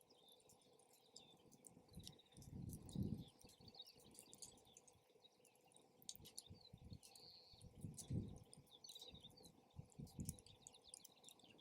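Campfire crackling with frequent small pops, birds chirping faintly in the background. Gusts of wind rumble on the microphone about three seconds in and again about eight seconds in.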